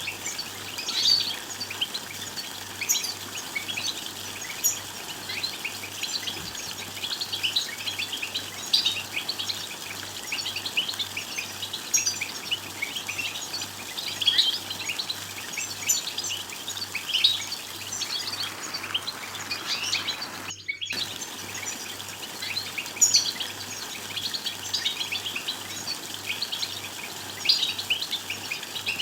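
European goldfinches twittering in a dense chorus of quick, high chirps and call notes, the excited calling used to set male goldfinches singing. The calling breaks off for a split second about 21 seconds in.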